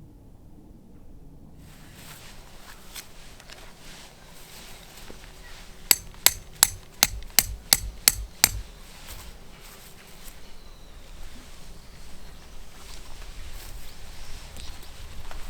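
A quick run of about eight sharp hammer strikes, roughly three a second, in the middle of an otherwise quiet outdoor background.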